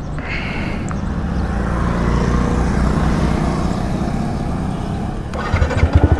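Yamaha R15M's 155 cc single-cylinder engine running through a free-flow Akrapovič exhaust. It holds a steady low note at first. About five and a half seconds in, it turns louder with a rapid pulsing that climbs in pitch as the throttle opens.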